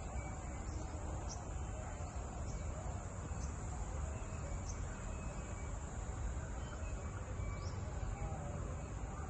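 Outdoor ambience: a steady high-pitched insect drone with short chirps every second or so, over a continuous low rumble.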